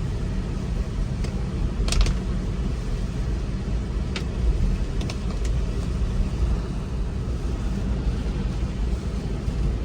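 Road and tyre noise of a Tesla Model 3 driving on a wet, snowy road, heard from inside the cabin: a steady low rumble, with a few brief clicks in the first half.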